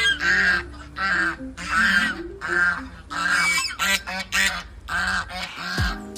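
Geese honking over and over, a harsh call about twice a second.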